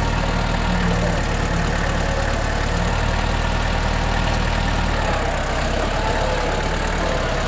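NorTrac 35XT compact tractor's diesel engine running steadily, its note shifting slightly about five seconds in.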